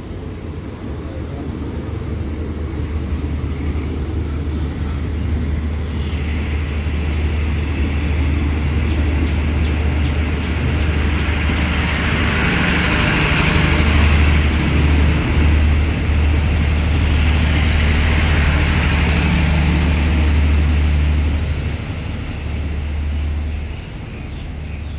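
Thai passenger train coaches rolling past at close range: a steady rumble of steel wheels on the rails that grows louder as the train gathers speed, then drops away near the end as the last coach goes by.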